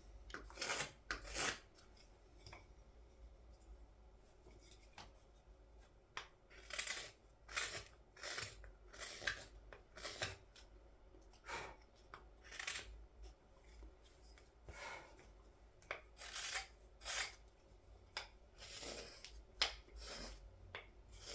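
Knife blade paring thin shavings from the inside of a carved wooden scoop: about twenty short, irregular scraping cuts, with a pause of a few seconds early on.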